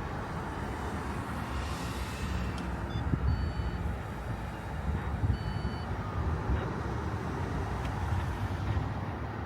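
DC fast charger running with a steady low hum and hiss while it connects to an electric car, with a few short, high electronic beeps about three and five seconds in.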